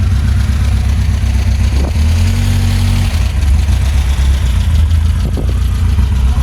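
A car engine idling with a steady low rumble, its pitch shifting slightly a couple of times.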